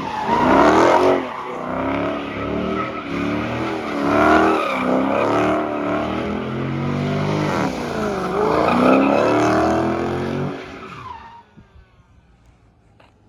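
Car engine being revved over and over, its pitch climbing and falling several times, then dying away about eleven seconds in.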